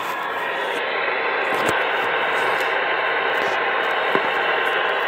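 CB radio receiver hissing with steady static through its speaker, with a couple of faint ticks.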